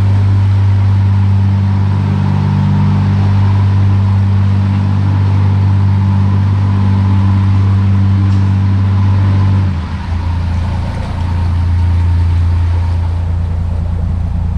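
Narrowboat's diesel engine running steadily under way. About ten seconds in its note drops slightly and briefly dips in loudness, then keeps running.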